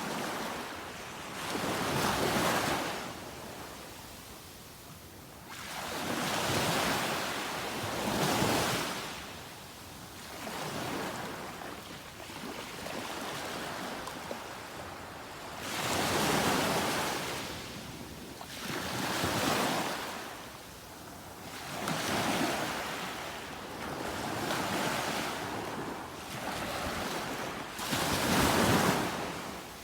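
Ocean surf: waves breaking and washing in, swelling and fading in slow surges every few seconds.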